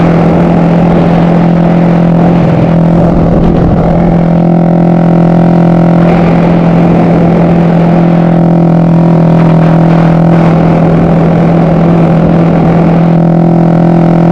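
Yamaha MX King motorcycle's single-cylinder engine, bored out to 300cc, running loud and steady through its exhaust. It holds one constant engine speed with an unbroken droning note.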